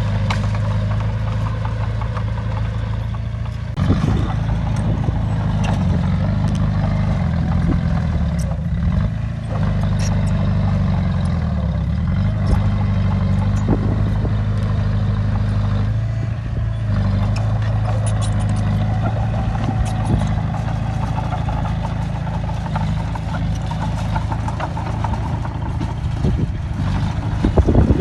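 Heavy diesel engine of a bulldozer working, its pitch shifting up and down as the load changes, with occasional clanks.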